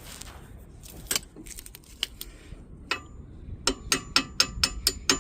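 Light metal-on-metal taps driving a brake pad retaining pin through a caliper, each tap ringing briefly. A few separate taps at first, then a steady run of about four or five a second from about halfway in.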